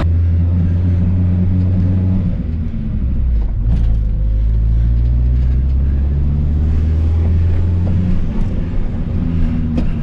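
Turbocharged Honda B18B1 four-cylinder engine of an Acura Integra, heard from inside the cabin while driving: a steady low drone that dips and picks up again about three seconds in, then holds even.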